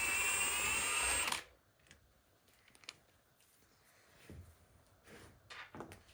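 A power tool runs for about a second and a half as a transmission plate bolt is backed out, then cuts off suddenly. Faint clicks and knocks of metal parts being handled follow.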